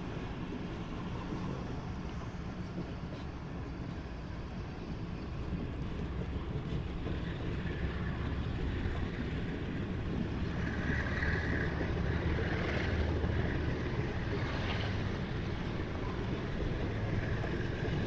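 Steady low rumble of a moving passenger train, growing slightly louder in the second half.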